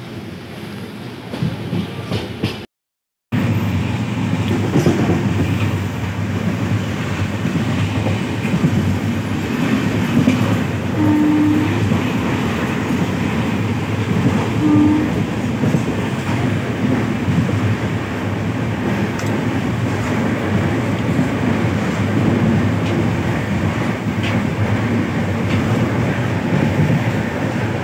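Passenger train running along the line, heard from inside the coach: steady running noise of wheels on track. It cuts out briefly about three seconds in and comes back louder.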